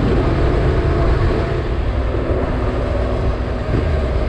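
Motorcycle engine running steadily at cruising speed on sealed road, with wind and road noise over it.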